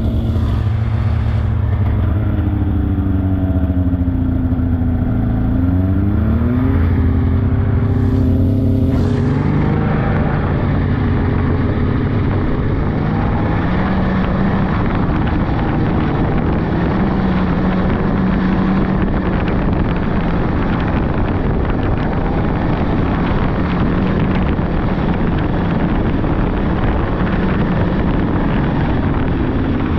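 Polaris 600cc snowmobile engine running under way; it speeds up about six to nine seconds in, then holds a higher, steady, noisier run with rushing wind.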